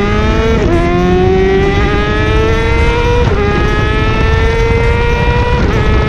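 A vehicle engine accelerating hard through the gears: its pitch climbs steadily, drops at each upshift and climbs again, three shifts in all, over a heavy rush of wind and road noise.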